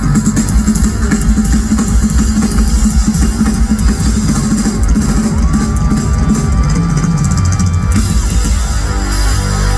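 Live hardcore punk band playing loud: distorted guitars, bass and a pounding drum kit. A single high note is held for a couple of seconds midway.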